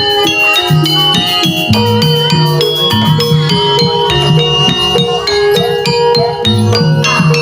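Javanese gamelan-style ensemble music for a jaranan dance. Struck metallophones ring out quick successions of notes over low, repeating tones.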